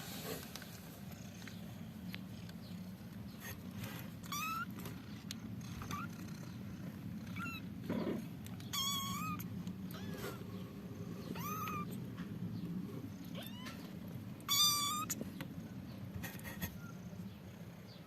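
Kittens mewing in short, high-pitched, wavering calls, about half a dozen of them, the loudest near the end, over a steady low hum.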